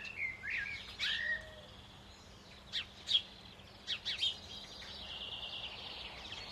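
Birds chirping and calling: short sharp chirps and whistled notes, some sliding in pitch, scattered over the first four seconds, then a steady high trill.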